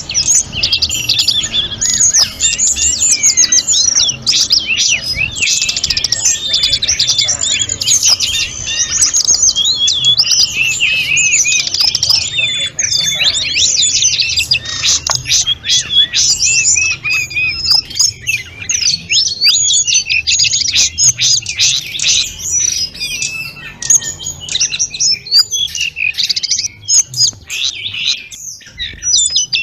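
Tledekan gunung (sulingan gunung) songbird singing a full, continuous song: a fast, unbroken stream of high chirps, trills and flute-like whistles, a little more broken in the last few seconds.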